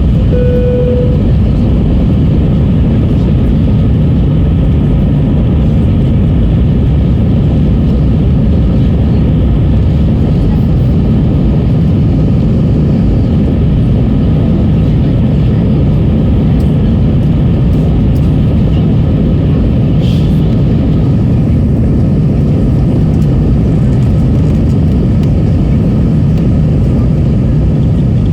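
Airliner cabin noise during takeoff: a steady, loud rush of jet engines and airflow, with a short chime tone about half a second in.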